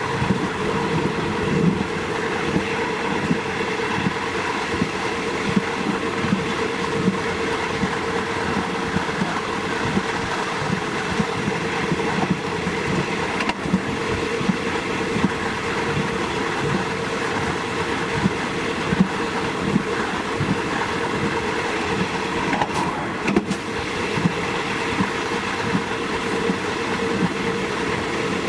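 State Railway of Thailand diesel train running along the line: a steady rumble and hum with frequent clatter of the wheels on the track.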